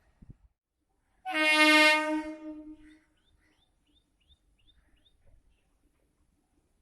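Local electric train's horn sounding one loud blast of about a second and a half, then fading away.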